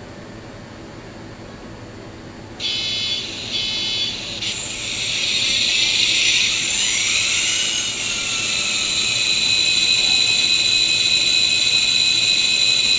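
MRC sound decoder in an N-scale Kato P42 locomotive playing its diesel engine start-up sound through the model's tiny speaker: two short bursts about two and a half seconds in, then the engine sound builds over a few seconds and settles into a steady idle. It sounds thin and high-pitched, with no low end.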